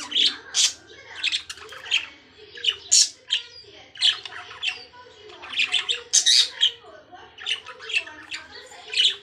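Pet love birds (small parrots) squawking and chattering together, with sharp high calls coming several times a second and no pause.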